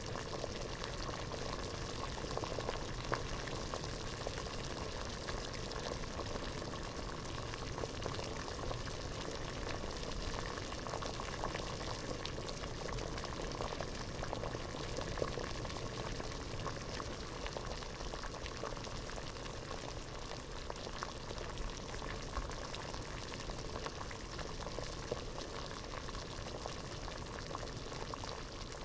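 Water boiling in a pot: a steady, dense bubbling full of small pops and ticks.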